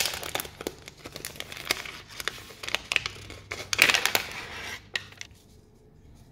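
Packaging crinkling and rustling as a stationery purchase is unwrapped by hand, with many sharp crackles. It is loudest about four seconds in and stops about five seconds in.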